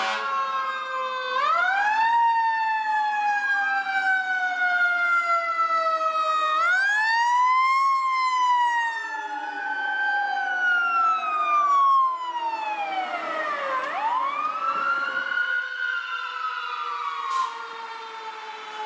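Fire apparatus sirens wailing, at least two overlapping, each pitch rising quickly and then sliding slowly down, over and over, with large fire trucks running underneath.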